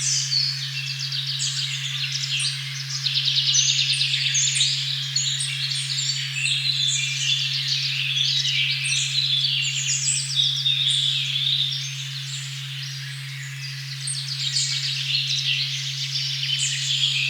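A steady low sine tone at 136.1 Hz, the 'OM' frequency, holds unbroken under a dense forest dawn-chorus-like mix of many birds chirping and trilling. The birdsong thins a little near the end.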